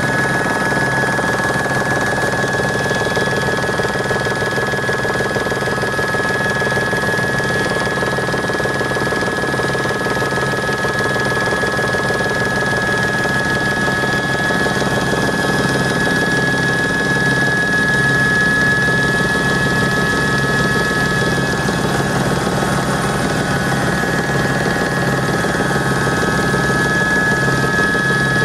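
Helicopter in flight, heard from inside the cabin: a steady high turbine whine over the even beat of the rotor, with no change in pitch.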